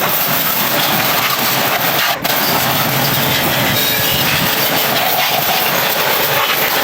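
A power tool running steadily with a loud, even noise, with a brief dip about two seconds in.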